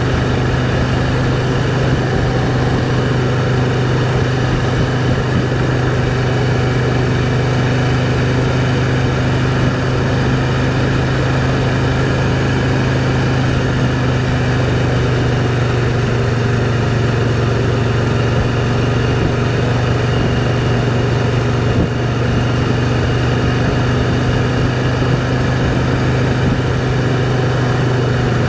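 Motorcycle engine running at a steady cruising speed with wind rushing past the microphone; the engine note holds even throughout.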